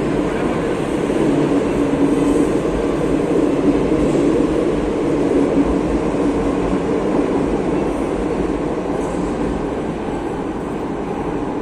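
Madrid Metro electric train running: steady running noise with a low hum, easing off a little near the end.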